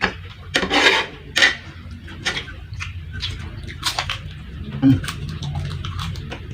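Close-miked eating of fried rice: chewing and mouth noises in quick, irregular bursts, with a spoon clinking and scraping on the plate.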